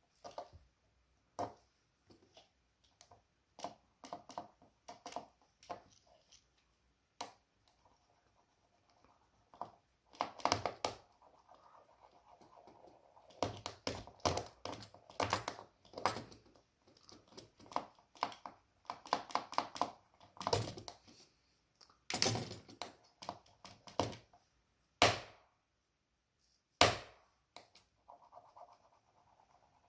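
Irregular clicks, scrapes and knocks of a smartwatch being handled and worked on, coming in scattered clusters, with two sharper knocks near the end.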